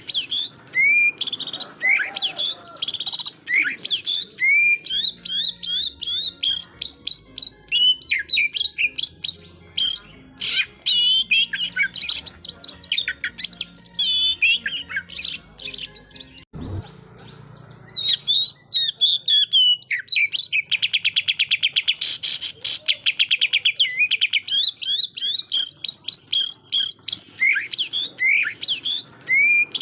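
Oriental magpie-robin (kacer) singing a fast, varied song of chirps and sweeping whistles. Just after the middle it breaks off after a brief low thump, then resumes with a long rattling trill of rapid repeated notes before returning to varied phrases.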